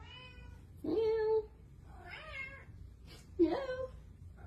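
Domestic cat meowing repeatedly, short calls about a second apart, the loudest about a second in and at about three and a half seconds.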